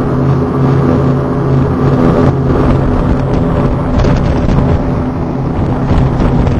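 Patrol boat's engines running steadily underway, a constant drone with a rushing noise over it.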